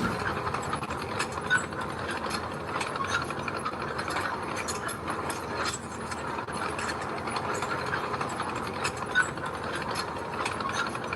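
Bulldozer working, its steel crawler tracks clanking and clattering in a dense run of irregular clicks over the engine, with two sharper clanks about a second and a half in and near the end.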